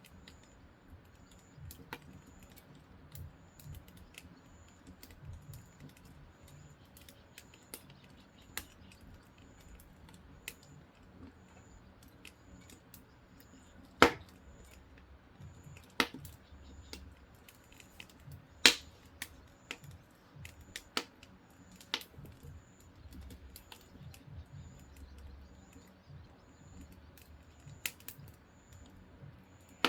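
Firewood burning in a wood stove, crackling with irregular small clicks and several louder sharp pops in the middle, over a low steady rumble of the fire.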